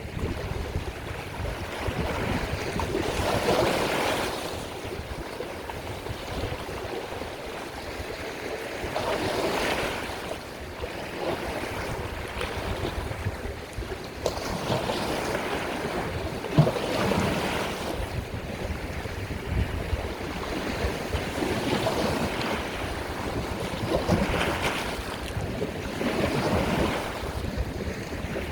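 Sea waves breaking and washing ashore, a swell of surf every few seconds, over a low rumble of wind on the microphone.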